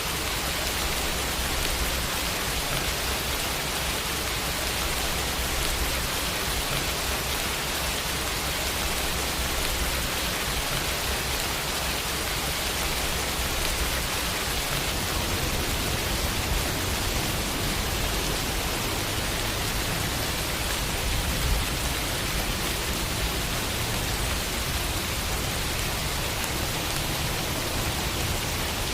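Steady rain falling on a window, an even unbroken hiss with a low rumble beneath.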